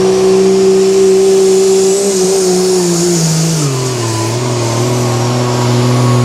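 Modified pulling truck's engine held at high revs, then dropping to a lower, steady pitch about three and a half seconds in as the throttle comes back.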